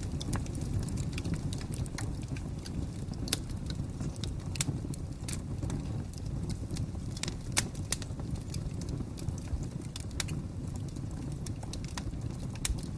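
Wood fire crackling: irregular sharp pops and snaps over a steady low rumble of flames, with one louder snap about halfway through.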